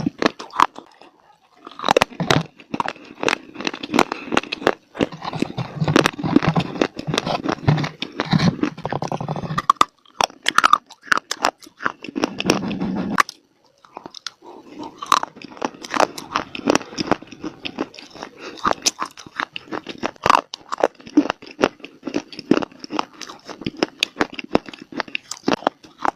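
Close-miked biting and chewing of dry baked clay (mitti): a dense run of sharp cracks and gritty crunches, stopping briefly near the start and again about halfway through.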